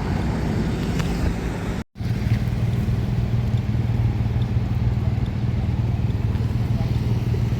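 Motor vehicle running: a steady low engine and road rumble. It breaks off briefly about two seconds in and comes back as a steadier low hum.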